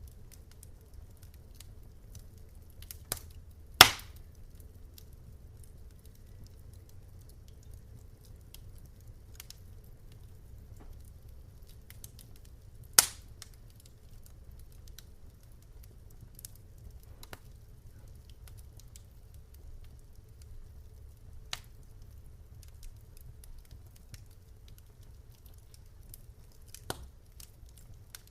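Wood fire in a fireplace crackling: scattered faint ticks and a few sharp pops, the loudest about four seconds in and again about thirteen seconds in, over a low steady rumble.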